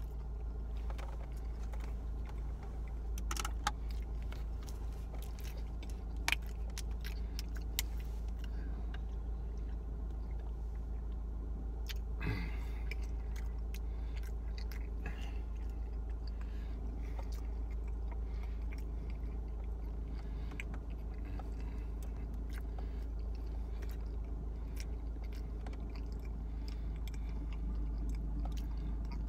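Close-up chewing and wet mouth sounds of a person eating pizza, with scattered small clicks, over a steady low hum.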